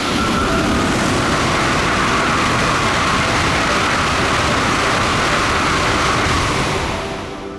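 Tokaido Shinkansen train passing through a station at high speed without stopping: a loud, steady rush of air and wheel noise that sets in suddenly, holds for about seven seconds, then fades quickly.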